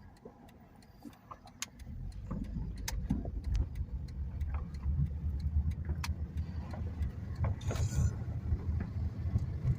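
Car interior road and engine rumble as the car drives. It is quieter for the first couple of seconds, then grows louder and holds steady as the car picks up speed, with scattered faint short pops and clicks over it.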